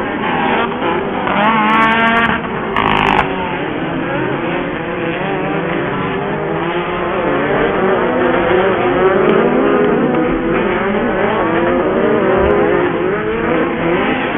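Several off-road race buggy engines running at racing speed, their pitch rising and falling as they rev and shift. About two seconds in, one engine close by revs up sharply.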